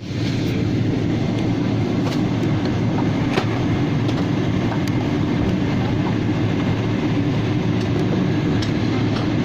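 Airliner cabin noise while the aircraft rolls on the ground: a steady, loud rumble of engines and wheels with a low hum and a few faint knocks.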